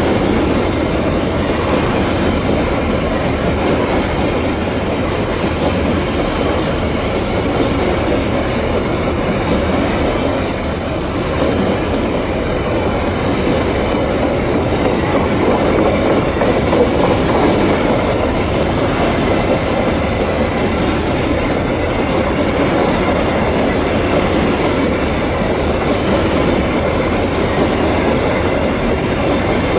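A long train of empty Babaranjang coal hopper wagons rolling steadily past, the wheels running over the rails.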